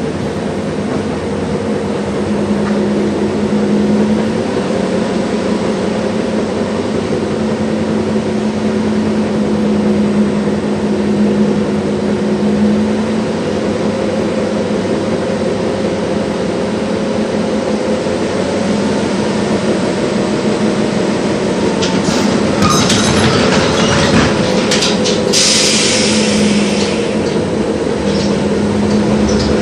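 LVS-86K articulated tram running along the track, heard from inside: a steady motor hum whose pitch drifts with speed over the rumble of the wheels on the rails. About three-quarters through comes a run of sharp clicks, then a brief burst of high-pitched noise.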